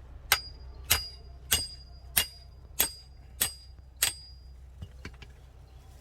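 Seven evenly spaced hammer blows on metal, about one every 0.6 seconds, each with a short high ring. A few faint clicks follow near the end.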